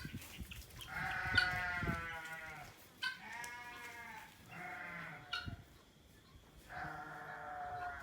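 Farm animals bleating: four separate wavering calls, each about a second long, one after another.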